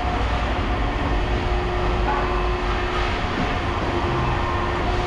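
Steady mechanical rumble and noise from running machinery, with faint steady hums over it.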